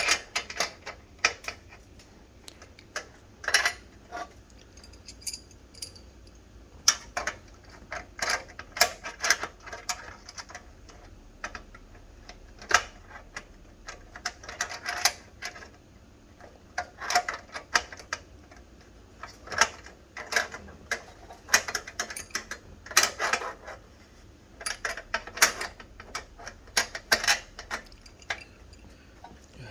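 Irregular metallic clicks and clinks, some in quick runs, of a wrench working on a stainless steel shower fitting as it is tightened.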